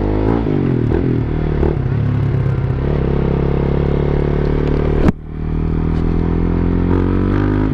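Big-bike motorcycle engine running under way, its pitch falling and rising with the throttle. About five seconds in comes a sharp click, the engine briefly drops, then it pulls up again, like a gear change. The rider finds the engine quieter and smoother on fresh Motul 300V oil.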